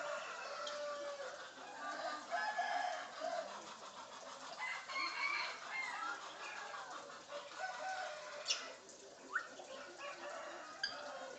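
African grey parrot calling and mimicking, a run of short chicken-like clucks and crowing calls, with a few sharp clicks in the second half.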